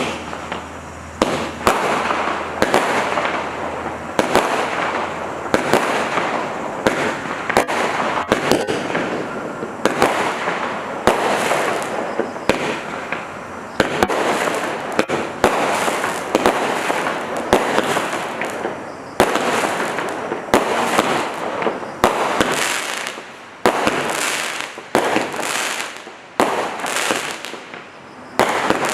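210-shot compound firework cake firing, its tubes launching and bursting in quick succession, a few shots a second, with a rushing, crackling noise between the shots.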